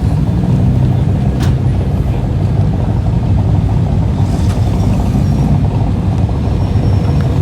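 Car engine running steadily, a low rumble, with a faint click about a second and a half in.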